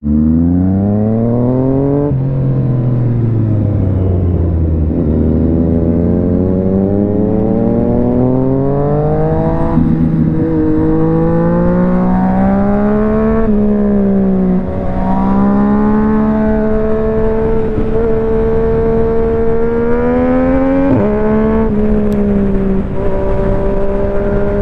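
Yamaha MT-09's inline three-cylinder engine running under load, its note climbing for a few seconds at a time, then dropping sharply several times, with a steadier stretch in the middle.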